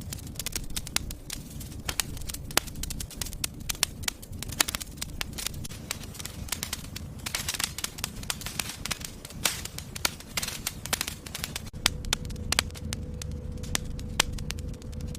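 Wood fire in a fireplace crackling, with many sharp irregular pops over a steady low rumble of the flames.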